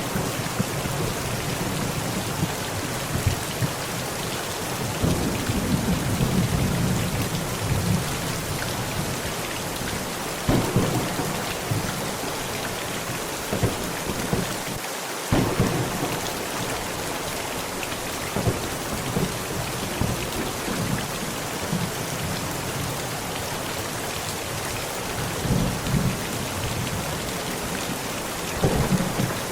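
Heavy rain pounding steadily on a tent during a thunderstorm. Thunder rumbles low about five seconds in, with sudden claps at about ten and fifteen seconds and again near the end.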